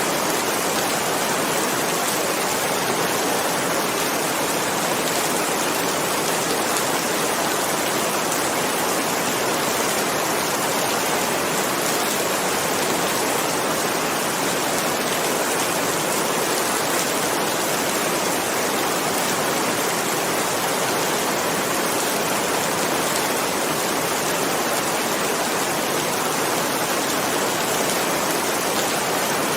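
Steady heavy rainfall, an even, unbroken hiss of falling rain with no thunder.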